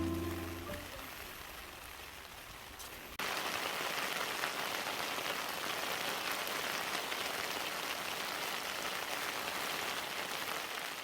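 Heavy rain falling, a steady hiss of drops that turns abruptly louder about three seconds in.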